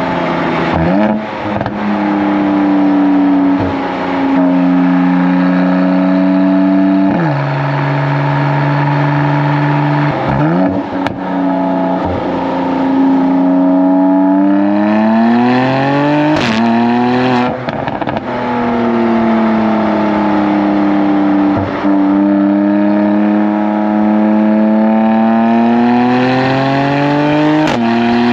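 Mercedes-AMG C43's twin-turbo V6 through its factory Performance Exhaust, heard close to the tailpipes while driving. The exhaust note holds, climbs and steps down at gear changes, with one hard pull about halfway through that rises and then drops at an upshift, and a few sharp cracks around the shifts.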